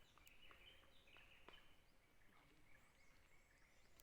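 Faint bird calls: a series of short, high chirping notes, with a few faint clicks among them.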